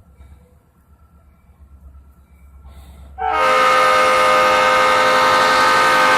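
Norfolk Southern freight locomotive's air horn sounding one long blast about three seconds in, a steady chord of several tones held for about three seconds.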